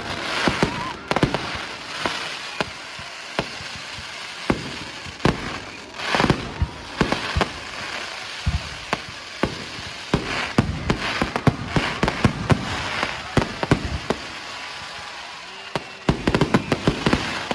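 Aerial fireworks going off: many sharp bangs and cracks, some in quick volleys, each echoing out.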